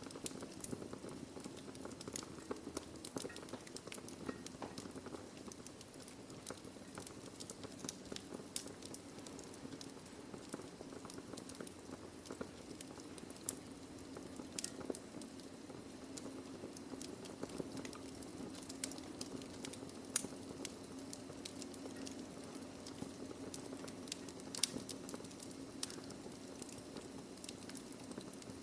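Wood fire burning in a fireplace: a steady low hiss and flutter of flames with frequent sharp crackles and pops from the logs, one pop about twenty seconds in standing out as the loudest.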